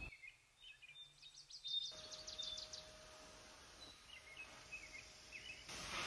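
Faint birdsong over quiet background noise: a quick run of chirps, then a few short separate calls about two-thirds of the way through.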